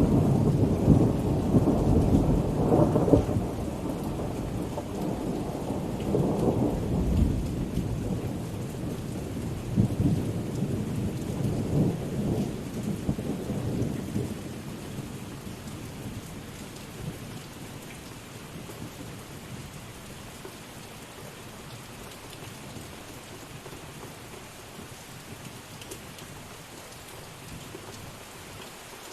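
Thunder rolling over steady rainfall, the low rumbles swelling several times in the first half and dying away about halfway through, leaving only the even hiss of rain.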